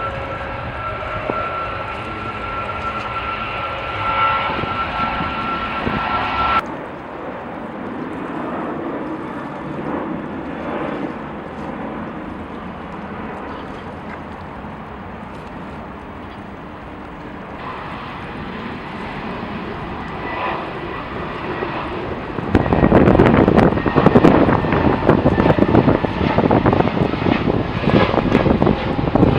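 Jet airliner engines running with a steady whine over a rushing noise, cut off abruptly about six seconds in, followed by quieter, more distant aircraft engine noise. From about 22 seconds a loud, gusty rush with wind buffeting the microphone.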